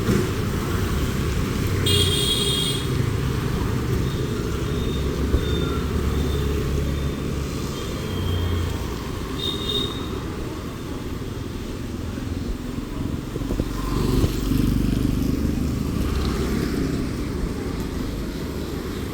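Road traffic passing with a steady low rumble of engines and tyres, and a vehicle passing close about fourteen seconds in. Short high-pitched tones sound about two seconds in and again near ten seconds.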